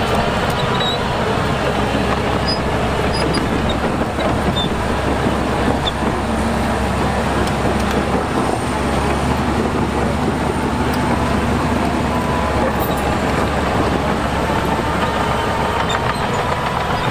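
Heavy diesel earthmoving machinery running steadily at work, a dense, even engine noise without pauses.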